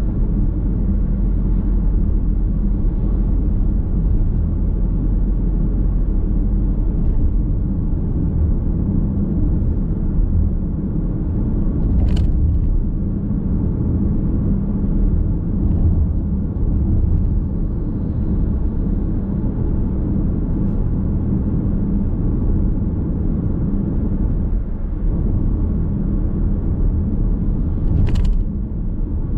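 Car driving along a road, heard inside the cabin: a steady low rumble of tyre and road noise. Two short sharp ticks come about 12 seconds in and again near the end.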